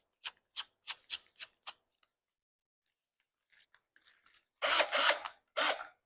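Evenly spaced ratcheting clicks, about three a second for nearly two seconds, then after a pause two short loud bursts of a drill boring into wood to deepen a hole that was too shallow.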